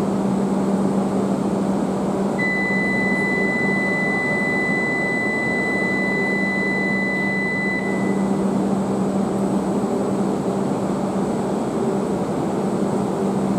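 Steady mechanical hum on a station platform, with a single continuous high-pitched electronic beep that starts about two seconds in and cuts off after about five seconds.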